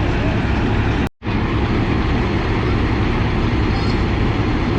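Heavy vehicle engine running steadily under a dense rumble, broken by a split-second dropout about a second in.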